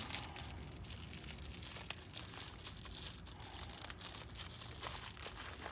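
Faint handling noises of small engine parts on a bench: light rustling with a few soft clicks.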